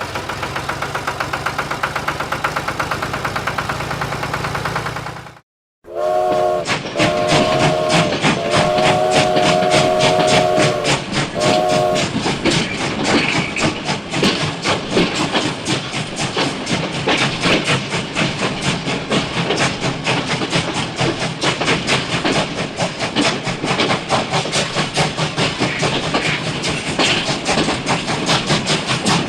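A small engine running with a rapid, even chugging. It cuts off briefly, then comes back as a faster, denser clatter, with a horn sounding four short held toots near the start of that stretch.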